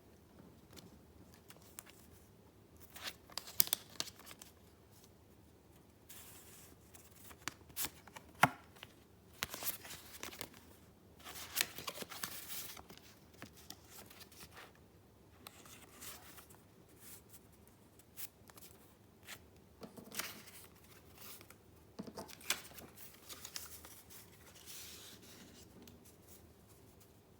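Sheets of paper being handled in a handmade junk-journal book: irregular rustles and sharp paper clicks in short spells, with quiet gaps between.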